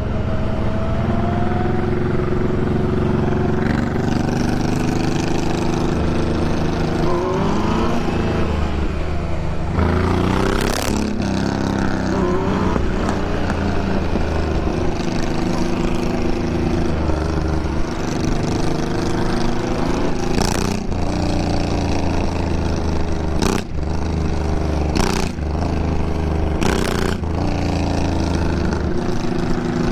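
Motorcycle engine running under way, its pitch climbing and dropping several times with the throttle. A few short sharp clicks break in over the second half.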